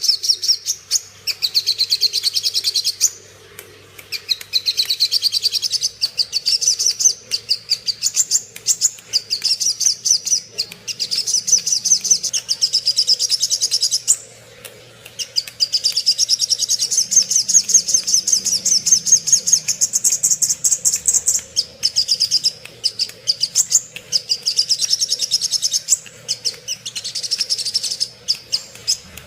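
Crimson sunbird (sogon) singing its combative fighting song: long runs of high, very rapid chirping trills, several seconds each, broken by short pauses.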